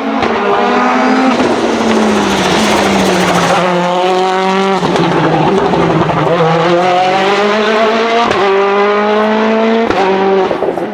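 Citroën DS3 WRC's 1.6-litre turbocharged four-cylinder rally engine accelerating hard through the gears, pitch climbing in each gear and dropping at quick upshifts around the middle, about two-thirds through and near the end.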